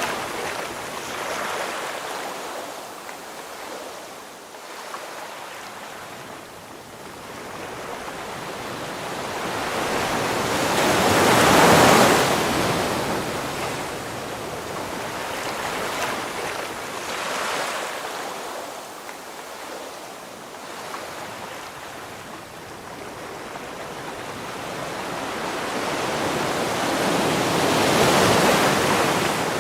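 Ocean waves breaking on a shore. Two big waves crash about twelve seconds in and again near the end, with smaller swells and quieter lulls between them.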